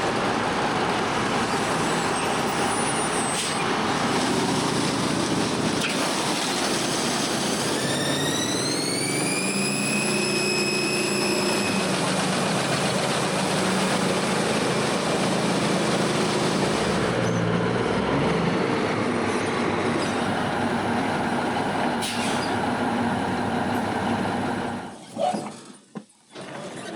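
Diesel truck engine running steadily while it builds air pressure, with a whine that rises in pitch about eight seconds in and holds for a few seconds. The sound drops away briefly near the end.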